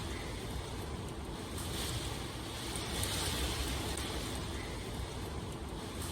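Steady rain: a constant hiss over a deep low rumble, the hiss swelling and easing every second or two.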